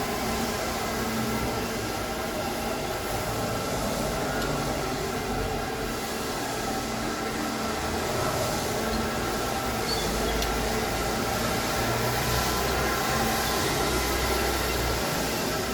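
Wet floor-scrubbing machine running steadily, a continuous mechanical noise with a low hum and a faint whine.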